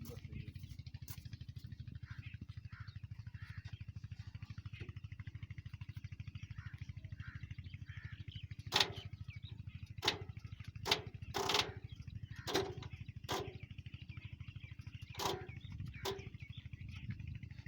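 Massey Ferguson 375 tractor's diesel engine idling with a steady low pulse. From about nine seconds in, a series of about eight sharp clicks or knocks.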